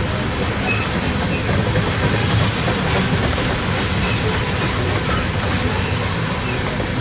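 A freight train's tank cars rolling past: a steady rumble of steel wheels on rail, with a few faint short squeaks now and then.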